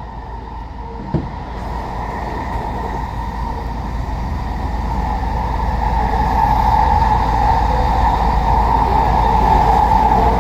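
Train running with a steady low rumble and a hum that grows louder through the second half, with a single sharp click about a second in.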